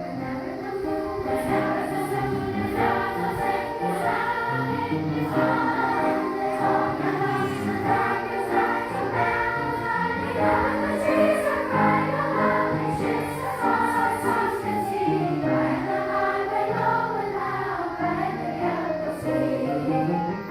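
A choir singing in parts, many voices holding and moving between pitches together.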